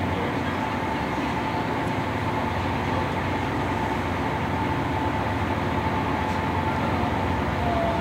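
Lead diesel locomotive of a loaded coal train running steadily as it hauls the train past, engine rumble mixed with rail and wheel noise and a steady whine.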